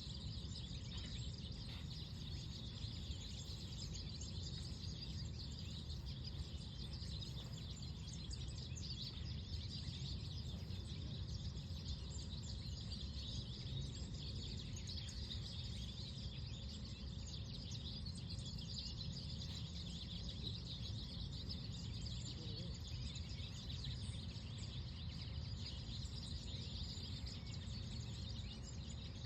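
Park ambience: many small birds chirping and twittering throughout over a steady low rumble of wind or distant traffic.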